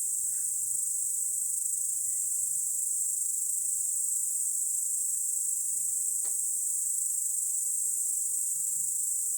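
Crickets singing in a steady, high-pitched, unbroken chorus on a summer evening.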